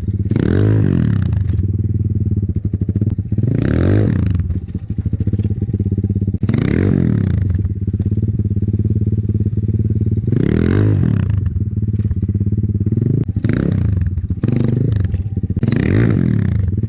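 Enduro dirt bike engine running and revving, its pitch rising and falling about six times as the throttle is opened and closed, with steady lower running in between.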